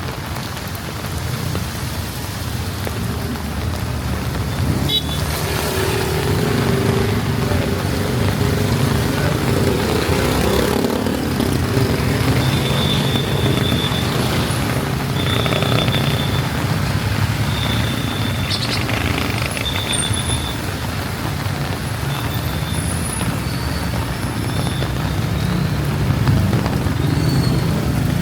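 Street traffic on a wet road in the rain: vehicle engines running and passing over a steady hiss of rain and tyres. A held tone runs through the middle, with several short high tones later on.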